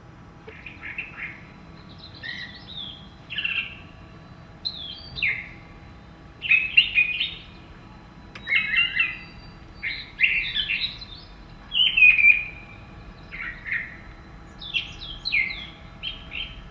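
Birds chirping and calling in a run of short, varied phrases, over a faint steady hum.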